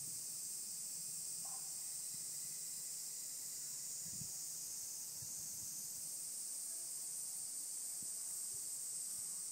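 Cicadas singing together in a continuous, steady high-pitched buzz.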